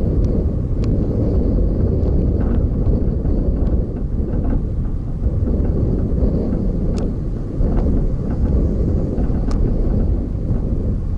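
Steady low rumble of a moving vehicle with wind buffeting the microphone. A few faint clicks are scattered through it.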